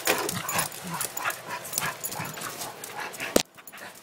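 A dog whimpering and yipping at close range among scuffling noises, with one sharp knock about three and a half seconds in.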